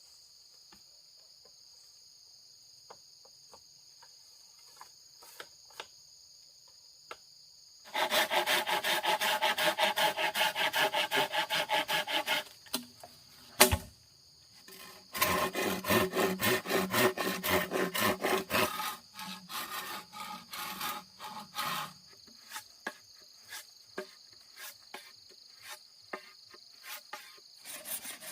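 Hand saw cutting wood in fast, even back-and-forth strokes: two loud runs of a few seconds each, with a single sharp knock between them, then slower, lighter strokes. A steady high insect hum lies under it all, alone for the first several seconds.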